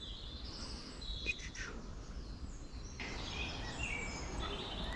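Small birds chirping and singing: short high notes and brief phrases, more of them in the second half, over a steady low rumble.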